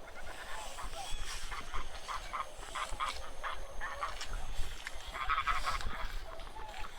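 A flock of wild geese calling, many short honking calls overlapping, thickest about five seconds in.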